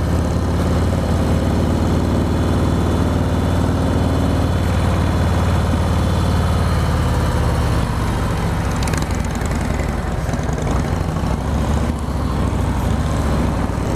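Harley-Davidson V-twin motorcycle engine running under way, with wind rush; its pitch rises slowly over the first few seconds as the bike gathers speed, then holds steady.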